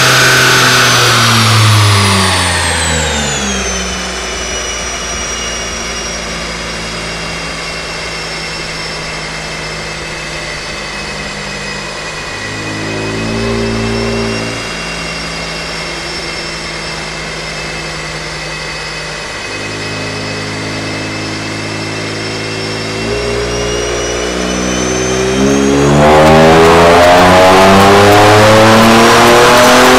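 Kia Stinger 3.3-litre twin-turbo V6 with an AGR exhaust running on a chassis dyno. The revs fall away over the first few seconds, then it runs steadier and quieter with a high whine above it, a short blip about 13 seconds in, and the revs stepping up twice. Near the end it goes to full throttle, much louder, the revs climbing fast.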